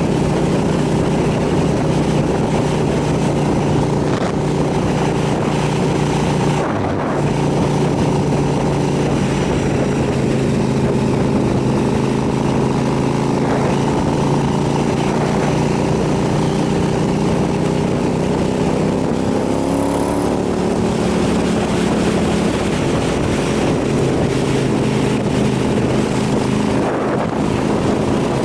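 KTM 990 SMR supermoto's V-twin engine running at a steady riding speed, heard over wind and road noise. Its pitch shifts a little about twenty seconds in, and there are short dips about seven seconds in and near the end.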